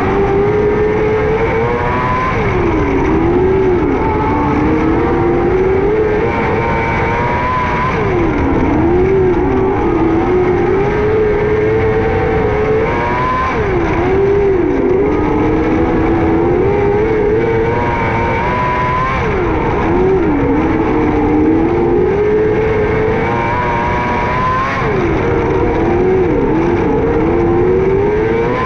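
600cc micro sprint car engine running hard at racing speed. Its pitch drops sharply and climbs again about every five and a half seconds, as the throttle is lifted into each turn and opened back up off it.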